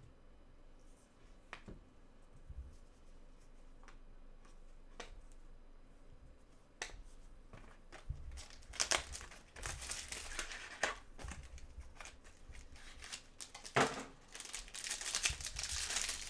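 Trading cards and their plastic packaging being handled: a few light clicks and taps at first, then from about halfway a run of crinkling and rustling.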